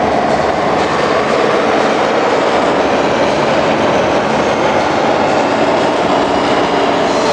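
Steady, loud engine noise like a running motor vehicle, holding even throughout with no breaks.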